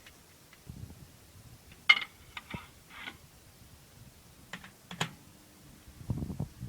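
A few scattered clicks and taps, the loudest about two seconds in, with more shortly after and two more around five seconds in, then low rumbling handling noise near the end.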